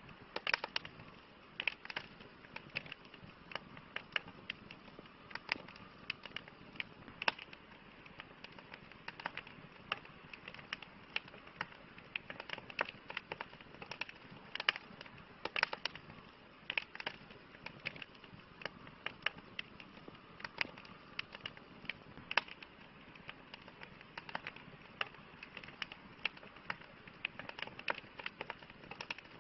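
Wood campfire crackling and popping: irregular sharp pops over a steady hiss.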